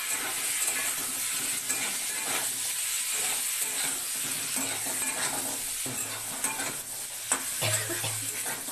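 Potato and tomato pieces sizzling in hot oil in a metal kadhai while a spatula stirs and scrapes them against the pan, with a steady hiss under irregular scraping knocks and one sharper clack of the spatula near the end.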